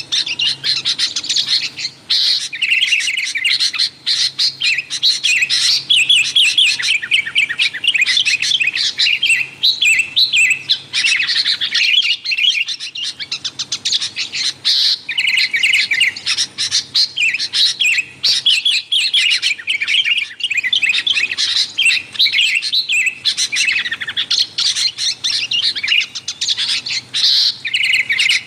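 Sooty-headed bulbuls (kutilang) calling in a busy, noisy chatter of rapid chirps, with a short lull about halfway through. The recording is used as a lure to call in wild bulbuls.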